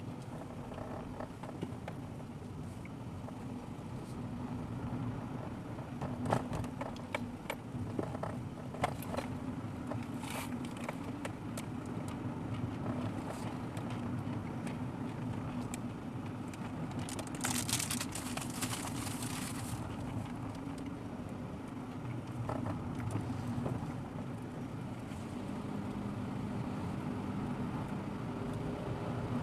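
Car driving, heard from a dashboard camera: steady engine and road noise, with scattered knocks and clicks from the road surface and a brief hiss a little past halfway.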